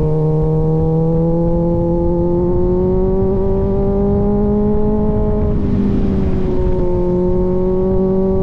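Kawasaki Z900 inline-four running through an aftermarket AR exhaust while riding, the engine note climbing slowly. It dips a little over five seconds in, then holds steady.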